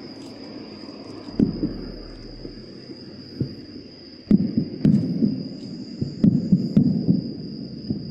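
Aerial firework shells bursting: scattered booms early on, then a quick run of booms and crackles from about four seconds in.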